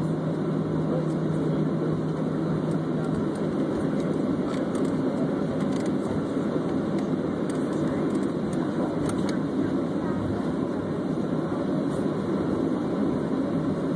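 Steady rumbling noise of a jet airliner's engines and airflow heard inside the passenger cabin, with a low steady tone that drops out about a second in.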